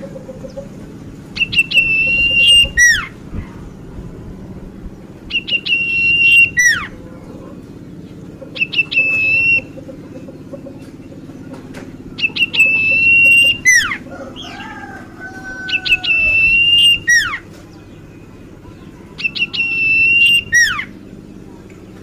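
Common iora (cipoh) singing a repeated phrase about every three to four seconds: a few quick ticks lead into a held, high whistled note that ends in a fast downward sweep. A lower warbling sound comes about two-thirds of the way through, over a steady low hum.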